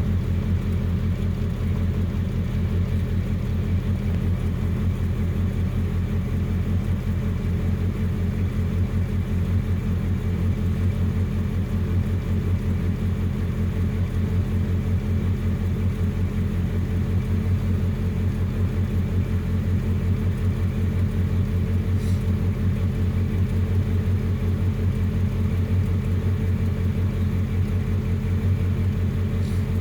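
Nissan 720 pickup engine idling steadily after a cold start, with an even low rumble that holds the same speed throughout.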